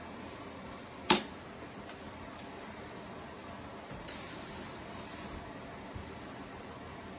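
A sharp click about a second in, then a brief hiss that starts and stops suddenly and lasts about a second and a half, over a steady low hiss.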